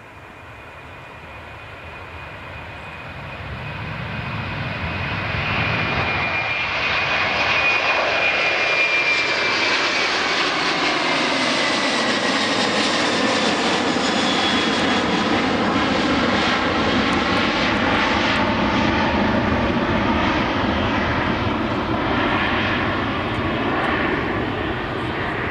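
Airbus A330 jet engines spooling up to takeoff power. The noise swells over the first six seconds with a high whine, then holds steady and loud through the takeoff roll.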